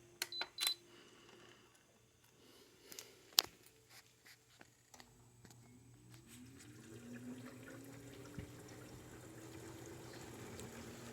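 LG 6000 BTU window air conditioner powering on: a short beep and a click, then about six seconds in its fan motor starts and spins up with a rising hum that settles into a steady run. The condenser fan blade splashes water that has collected in the unit.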